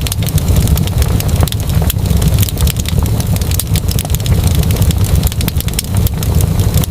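Fire crackling with many sharp pops and snaps over a steady low rumble of the burning flames.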